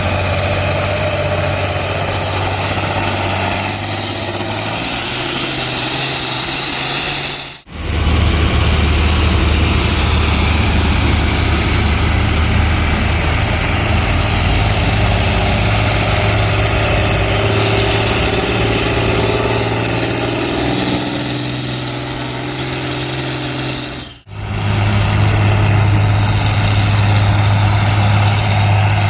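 Pulling tractor engine running hard under load, with a high whine that climbs in pitch and then holds. The sound cuts out for a moment twice and picks up again.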